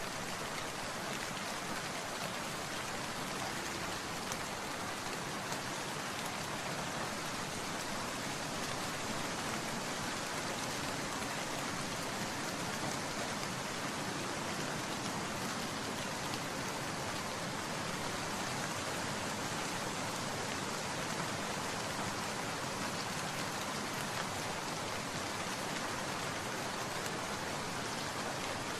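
Steady rain falling and pattering on surfaces, an even hiss without breaks.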